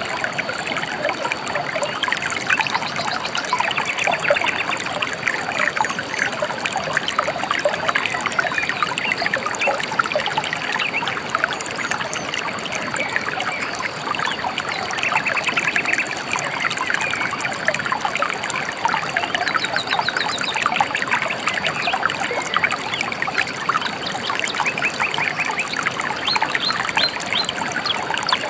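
Gently flowing river trickling and babbling steadily, with birds chirping in short, rapid trills now and then.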